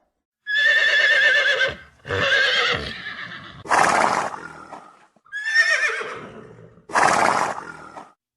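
An equine calling loudly in a series of about five calls. Quavering, pitched cries alternate with harsher, breathy blasts.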